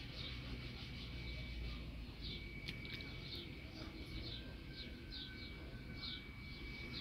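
Small birds chirping repeatedly in short, high chirps at irregular intervals, over a thin steady high tone and a low rumble.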